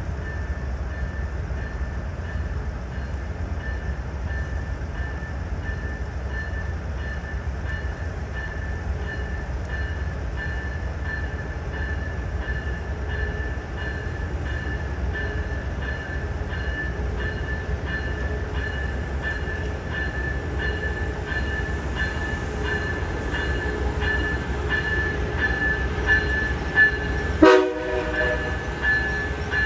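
Amtrak Acela trainset approaching and pulling into the station, its bell ringing steadily about twice a second over a low rumble that grows as the train nears. Near the end there is one short, loud horn blip.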